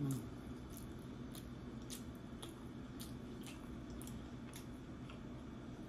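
Close-up chewing of creamy baked shrimp and crab dip: soft wet mouth clicks at a slightly uneven pace of about two a second, over a steady low room hum. A brief low sound comes right at the start.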